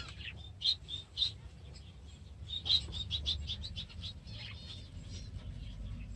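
Budgerigars chirping and chattering in an aviary: many short, high chirps, with a quick run of them about halfway through, over a steady low rumble.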